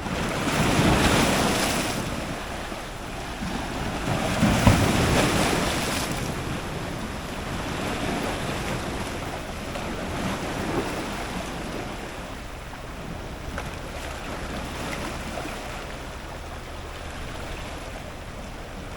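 Strong ocean surf breaking on rocks at close range. Two big waves surge about a second in and around five seconds, then a lower, steady wash of water continues.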